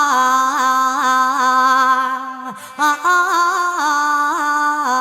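A mor lam singer draws out a long vowel in the Isan lam style, holding wavering, ornamented notes. Midway there is a brief break and downward slide, then the held line resumes.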